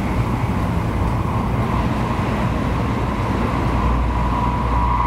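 Steady running noise of a Tokaido Shinkansen train heard inside the passenger car: a low rumble of wheels on rail with a thin steady tone that grows a little stronger near the end.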